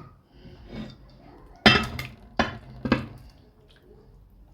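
Dishes being handled: a cluster of four or five sharp knocks and clinks, the first the loudest, with softer rustling around them.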